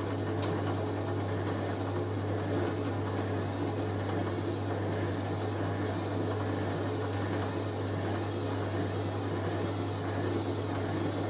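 Hoover A3060 Electronic 1100 washing machine running steadily as its drum turns to distribute a load of wet bedding before the spin, with a low hum throughout and a single click about half a second in. The load is badly out of balance, the duvet covers bunched to one side.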